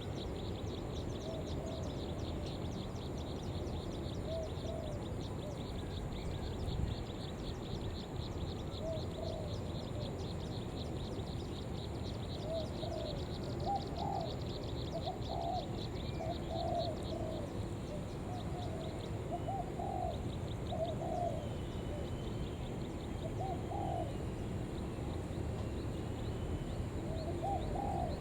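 Spotted dove cooing in short repeated phrases, the calls of a decoy bird. A fast, high insect-like ticking trill runs over it and fades out about two-thirds of the way through, over a steady low background rumble.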